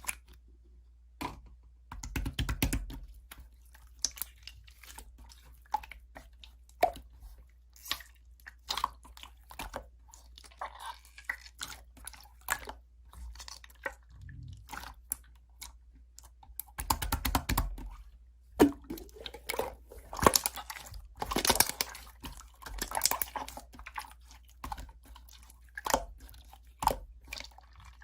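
Close-up crunchy chewing: irregular sharp crunches and mouth clicks, busiest in the latter half.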